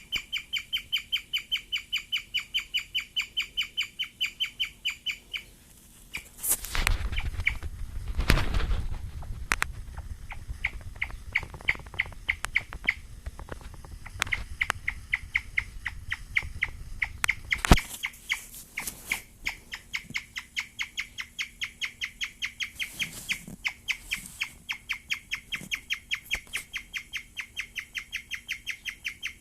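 A guinea pig chirping like a bird: a fast, even run of high, thin chirps, about four a second, which the owner takes as a sign of great excitement. The chirping breaks off briefly about five seconds in, and a few seconds of louder rustling noise and a sharp click come over it before it goes on.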